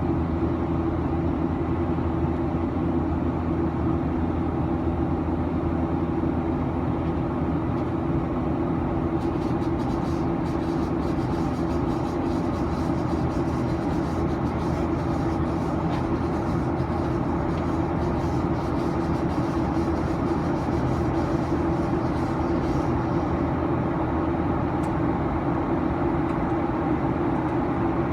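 Steady engine hum and air rush inside the cabin of a Boeing 737-900, its CFM56-7B turbofans running at an even power with no rise or fall, with faint ticks and rattles in the middle.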